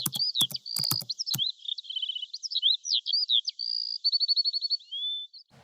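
A bird singing a varied run of chirps, short whistles and quick trills, with a rapid trill near the end. Several sharp clicks come in the first second and a half.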